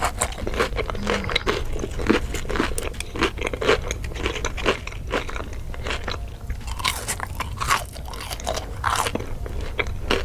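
Close-miked ASMR chewing of a battered corn dog and french fries: a run of crisp, wet crunches and mouth sounds with short pauses between bites.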